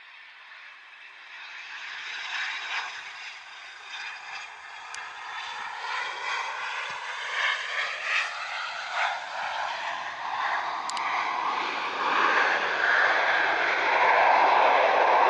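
Business jet's turbofan engines, steadily growing louder as the aircraft approaches, with whining tones that slowly drop in pitch; loudest near the end.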